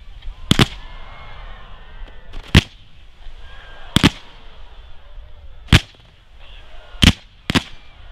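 Aerial firework shells bursting in the sky: about six sharp bangs at uneven intervals of one to two seconds, two of them close together near the end, with a faint hiss between them.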